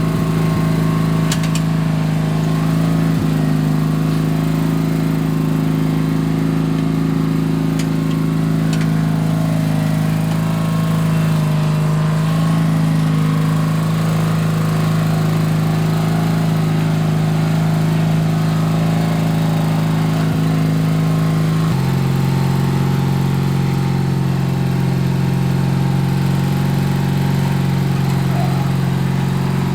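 Vertical-shaft engine of a Craftsman LT4000 lawn tractor running steadily; about two-thirds of the way through, its pitch drops suddenly to a lower steady note.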